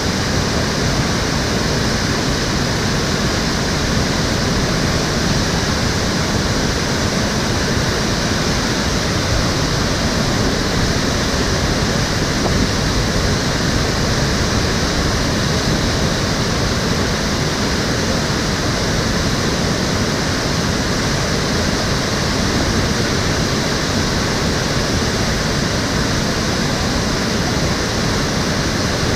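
Water of an urban stream rushing and splashing, likely over a weir or stepping stones, in a steady, even wash of noise.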